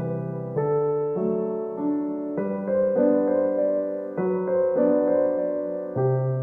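Background music: a gentle solo piano piece, soft chords and notes changing every second or so.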